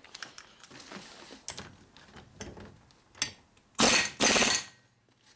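Hand tools handled at a workbench during flywheel assembly: light metallic clicks and clinks, then two short rasping bursts a little under four seconds in.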